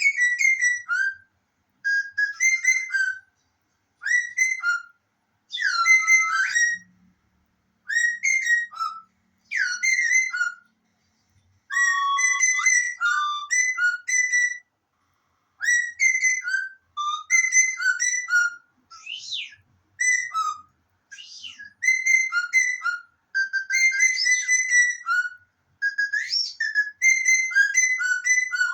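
Bird slide whistle and parrot whistling: warbling chirps and pitch glides in short bursts of one to two seconds, separated by brief gaps.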